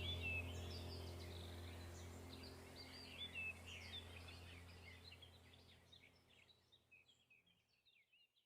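Background track of many small birds chirping over a low steady hum, the whole track fading out to silence near the end.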